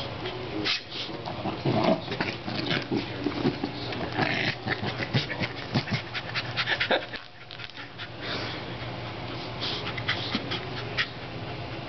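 Corgi panting and making excited noises as it attacks an air pump, with many short clicks and scuffs over a steady low hum.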